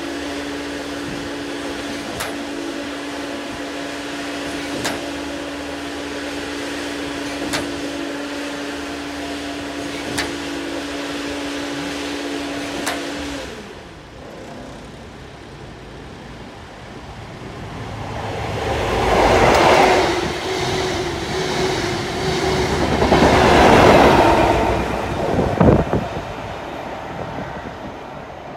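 A steady hum with a faint click about every two and a half seconds, which stops abruptly about halfway through. Then a GWR 'Castle' HST set with Class 43 power cars is heard on the line: its noise swells to two loud peaks a few seconds apart, each with an engine drone through it, then eases off.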